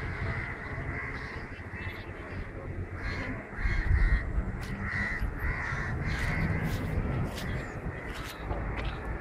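Birds calling repeatedly in short calls over a low rumble, with scattered sharp clicks in the second half.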